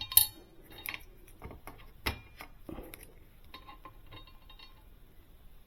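Scattered metallic clicks and clinks as the upper door hinge of a Sub-Zero 736TCI refrigerator is worked open and taken off, its screws removed. The sharpest knocks come just after the start and about two seconds in.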